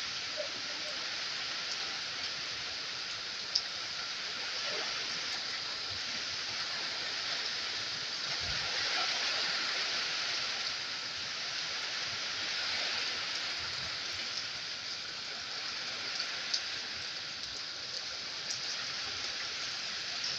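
Steady hiss of rain falling, with a few sharp ticks of single drops standing out from it.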